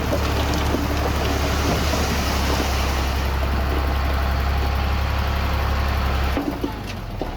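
Diesel heavy earthmoving machinery running close by: a steady low engine hum under a broad rushing rumble, which drops off sharply about six and a half seconds in.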